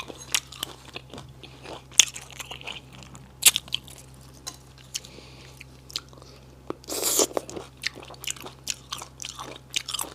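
Close-up chewing and crunching of spicy silkworm pupae: irregular sharp crunches throughout, with a longer, louder stretch of chewing about seven seconds in.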